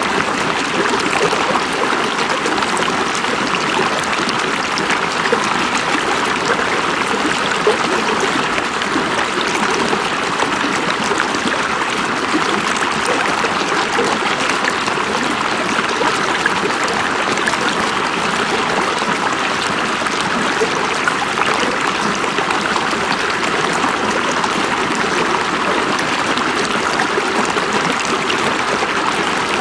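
River water flowing, a steady, unbroken rush with fine splashing detail throughout.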